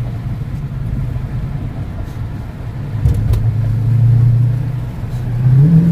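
Dodge Charger Daytona 392's 6.4-litre Hemi V8 heard from inside the cabin with the windows cracked, a low steady drone over road noise that swells louder about three seconds in as the car gets onto the highway.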